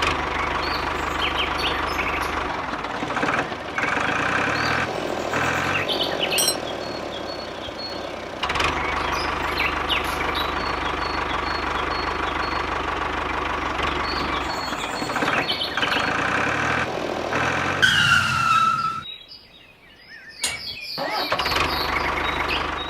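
A small engine running steadily, with bird chirps over it; the sound changes abruptly a few times, and drops out briefly near the end.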